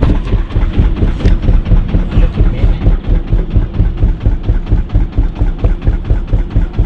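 Wooden boat's inboard engine running with a steady low beat, about four to five pulses a second.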